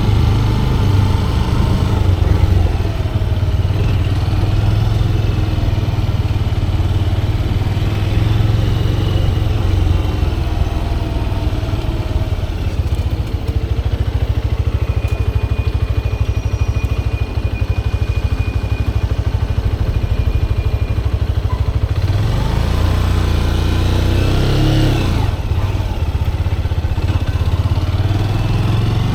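Motorcycle engine running, its note slowly rising and falling with the throttle.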